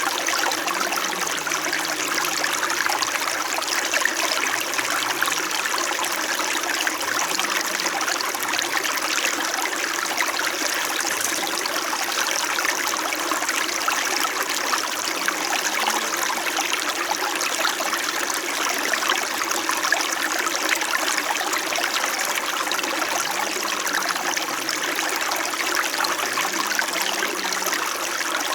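Small mountain brook in winter, flowing and murmuring steadily.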